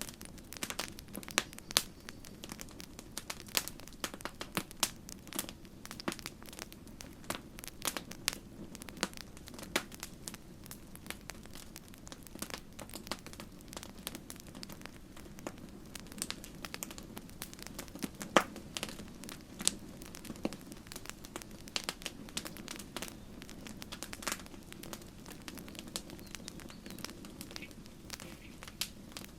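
Campfire crackling: irregular sharp pops and snaps, several a second, over a low steady rumble of the burning fire, with one louder pop about halfway through.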